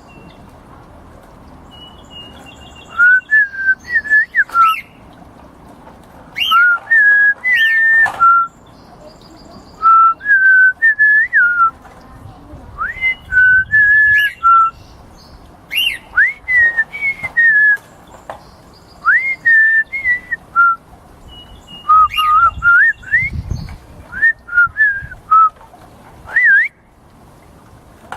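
A grey cockatiel whistling in bouts of short, warbling phrases with quick rising sweeps, with pauses of a second or two between bouts.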